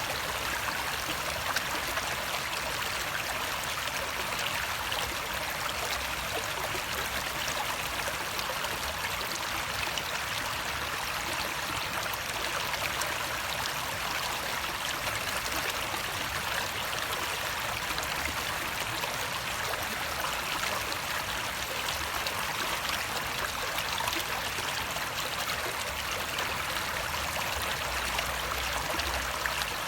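Water of a stream flowing and trickling steadily, with a dense patter of small splashes and no change throughout.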